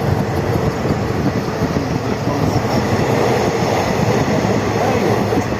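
A moving train running on the tracks: a steady, loud rumble and rattle.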